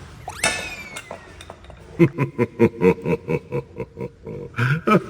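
A short whooshing sound effect about half a second in. From about two seconds in comes a rapid run of short, pitched animal-like grunts, about five a second.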